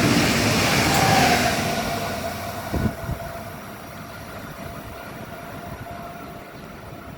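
A train passing through the station, loud at first, then fading away over a couple of seconds and leaving a faint steady whine. A short thump comes about three seconds in.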